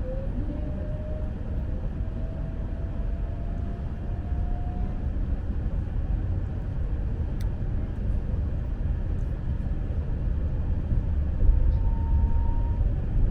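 Running noise of a Lastochka electric train heard from inside the carriage: a steady low rumble, with a thin whine rising in pitch over the first five seconds and a higher steady tone for about a second near the end.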